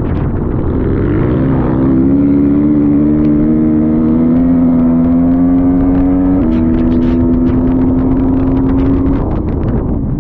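Motocross dirt bike engine pulling hard under throttle, its pitch climbing steadily for several seconds. About six seconds in the pitch jumps at a gear change, then it holds on the gas and backs off near the end, with scattered sharp ticks over the second half.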